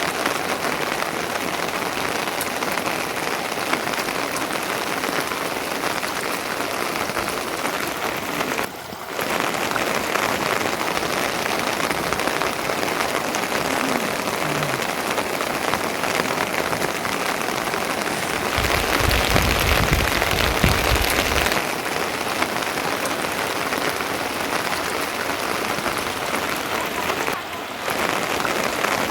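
Steady rain falling, an even hiss, with a louder few seconds of deep rushing about two-thirds of the way in.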